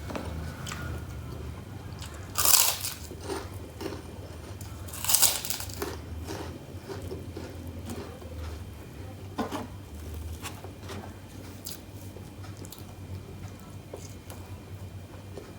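Close-up eating sounds: two loud crunchy bites into kerupuk crackers about two and a half and five seconds in, followed by chewing with smaller crunches, over a low steady hum.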